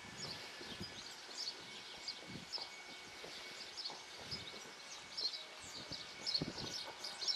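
Small birds chirping repeatedly in short high calls, with faint low thuds now and then.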